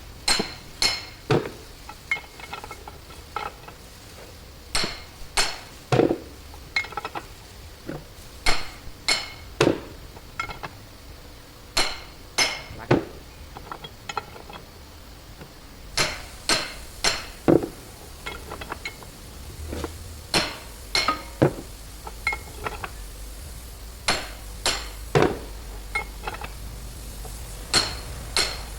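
Hammer blows on steel, struck again and again in irregular runs of two to four. Each blow rings metallically.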